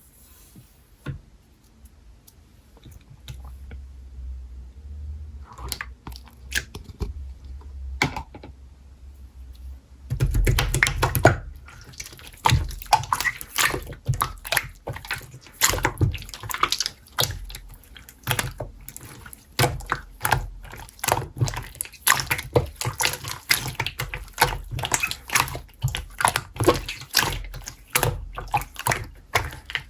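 Slime being squished and pressed by hand, making wet, sticky clicking and popping. It starts quiet with a few scattered clicks, then about ten seconds in turns into a loud, dense run of clicks and pops.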